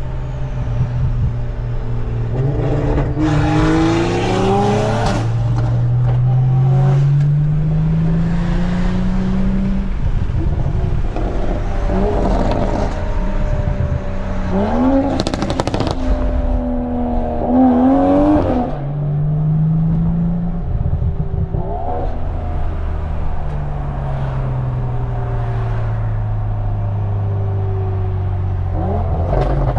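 Straight-piped, tuned Toyota GR Supra's B58 turbo inline-six with catless downpipe, pulling hard through the gears: the exhaust note rises repeatedly, then falls off, with sharp crackles in the middle stretch.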